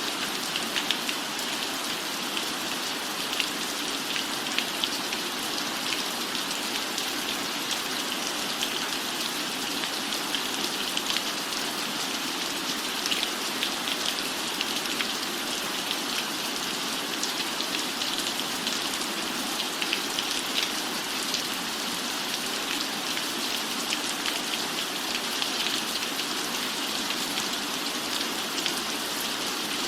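Steady rain falling on a roof, a constant hiss with many scattered sharp drop ticks.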